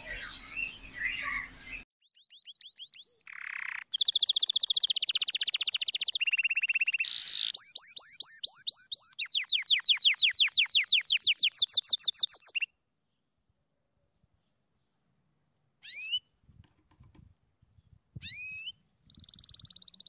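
Budgerigars chirping for the first couple of seconds, then a bird singing long trilled phrases: fast runs of repeated high notes, each run changing to a new note pattern every second or two. A few short gliding whistles come near the end.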